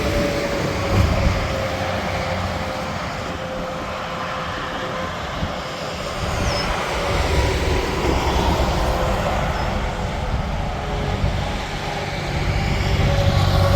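Interstate highway traffic: trucks and cars passing at speed, a steady rush of tyre and engine noise with a low rumble that swells as another heavy truck approaches near the end.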